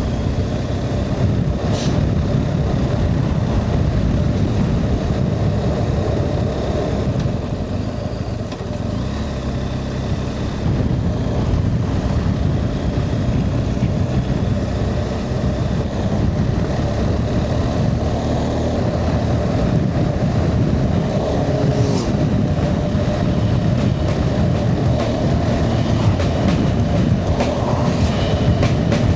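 Riding noise from a BMW R 1250 GS boxer-twin motorcycle on the move: steady engine drone mixed with wind and road rush. It eases off slightly about eight seconds in and picks up again a couple of seconds later.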